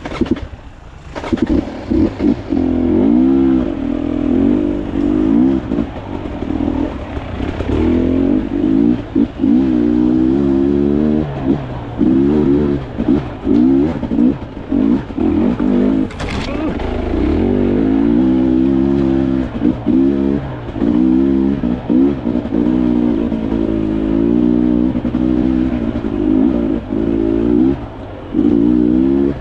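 Dirt bike engine being ridden off-road, its revs rising and falling again and again as the throttle is worked on and off.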